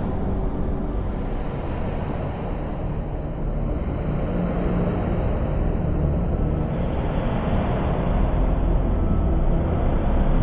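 Dark, rumbling electronic drone from the Lunacy Cube software synth: a dense, noisy texture heavy in the low end, brightening about seven seconds in.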